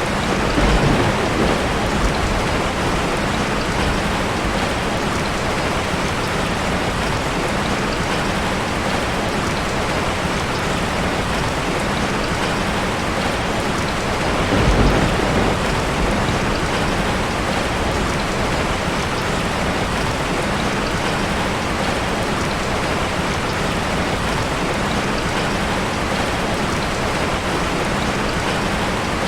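Heavy rain falling steadily on a corrugated zinc roof, with a low rumble of thunder about a second in and again halfway through.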